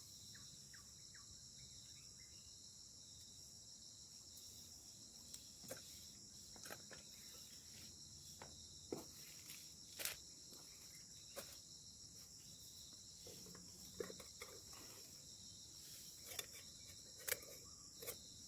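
A steady chorus of crickets and other insects as a high-pitched buzz, over a faint low hum. About ten sharp clicks and knocks are scattered through it.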